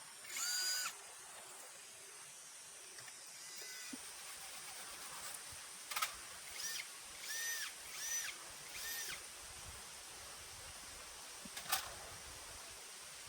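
A kitten mewing in short, high calls: one near the start, then four in quick succession about two-thirds of the way through. A couple of sharp clicks are also heard over a steady background hiss.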